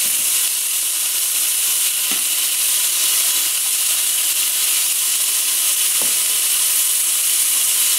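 Steady sizzling of chicken and garlic frying in a pan: a continuous, even hiss.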